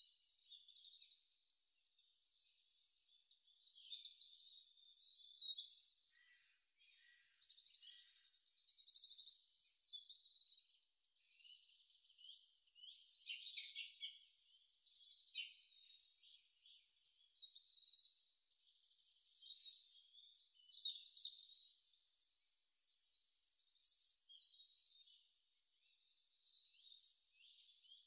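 Birds chirping and trilling in a continuous chorus of high, rapid calls.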